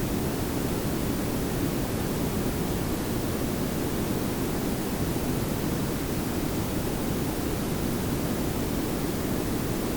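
Layered pink and brown noise: a steady, even hiss with a strong low rumble, unchanging throughout.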